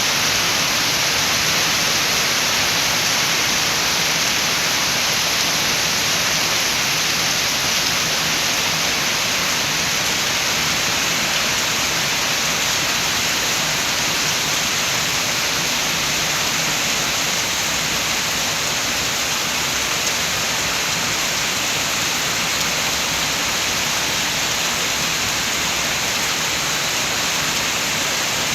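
Steady heavy rain, a dense even hiss with no single drops or gusts standing out.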